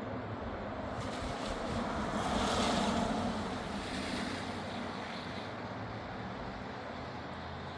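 Breezy wind and rain shower hiss, with a whoosh that swells and fades about two to four seconds in.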